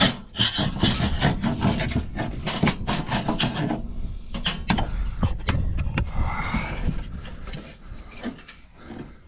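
Dry bird-nest material rustling and scraping as it is pulled out by hand, with many small knocks and clicks.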